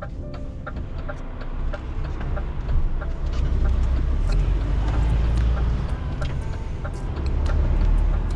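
Semi truck engine rumbling low, getting louder about three seconds in and again near the end as the truck pulls ahead, with a quick regular ticking over it.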